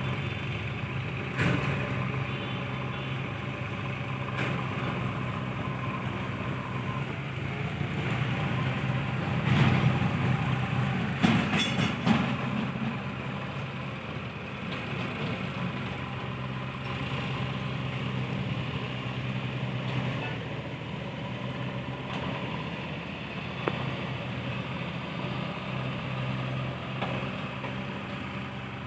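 Heavy diesel engine running steadily. It grows louder about ten seconds in, with a few sharp knocks, then settles back.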